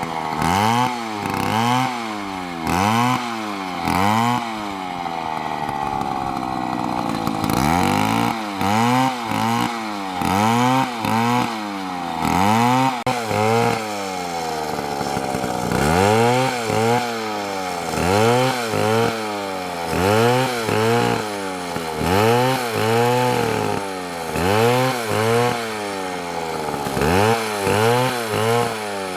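Large two-stroke chainsaw (an MS720) cutting into a big tree. Its engine pitch swings up and down about once a second, with a steadier stretch about five to seven seconds in.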